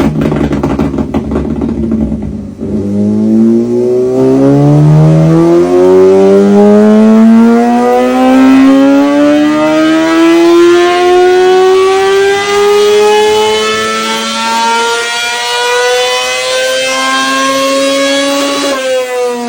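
Kawasaki Ninja ZX-6R inline-four exhaust note in one long pull, rising smoothly and steadily in pitch for about fifteen seconds with no gear change. Before it comes a short stretch of rougher engine noise, and the note breaks off sharply near the end.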